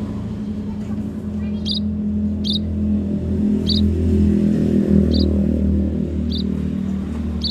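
A motor vehicle engine running with a steady low drone that swells slightly midway. Over it come six short, high chirps about a second apart from small birds, the emprit munias.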